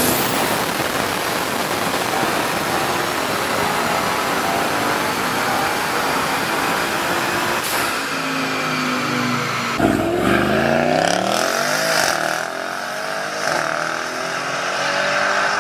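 Audi RS7's twin-turbo V8 held at full throttle on a chassis dyno, a loud sustained pull that lets off about eight seconds in. In the last few seconds an engine revs up and down in pitch.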